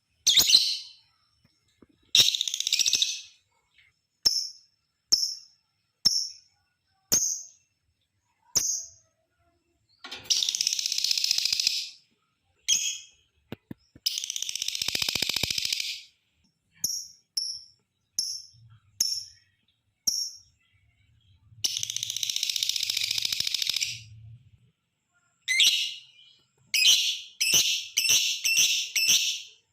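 Lovebird calling: short, high chirps about once a second, broken by three long chattering trills of about two seconds each (the long 'ngekek' call), and a quick run of chirps near the end.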